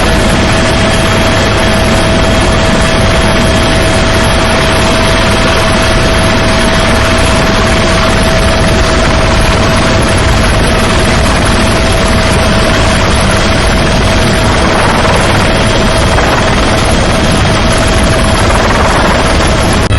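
Mil Mi-17 helicopter running loud and steady: a constant whine over a fast low rotor beat.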